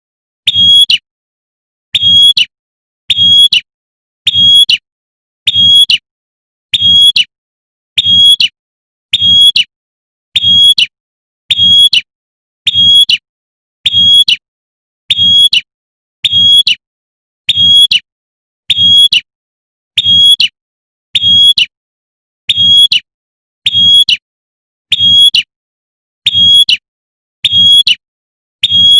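Female prenjak (prinia) 'tembakan' call, a lure call for drawing in males, played as a loop: a short, high call repeated evenly about every 1.2 seconds with silent gaps between.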